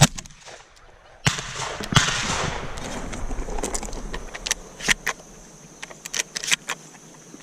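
Shotgun shots at passing doves: three sharp blasts within the first two seconds, the loudest right at the start, followed by several fainter sharp pops and clicks.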